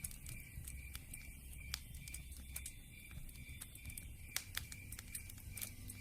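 Campfire crackling, with irregular sharp pops.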